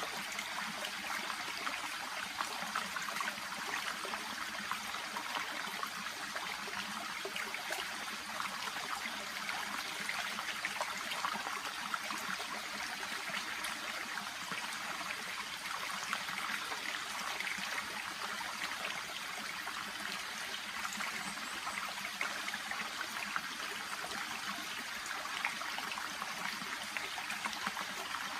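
Small shallow brook babbling steadily, water trickling and bubbling over stones with a fine, even crackle.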